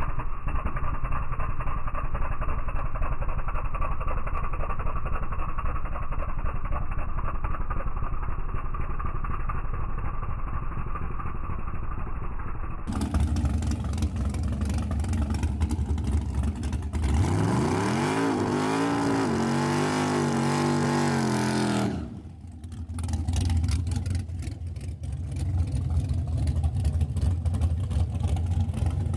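Drag-racing vehicle's engine running steadily, then a hard acceleration with the engine note rising sharply in pitch and holding high for about five seconds before dropping off, after which it settles back to a steady low run.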